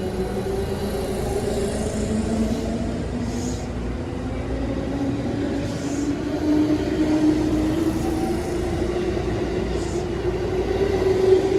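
A 221 series electric multiple unit pulling away and accelerating: its traction motors and gears give a whine that rises steadily in pitch over a low rumble. A few brief hissing or clicking sounds come in about three, six and ten seconds in.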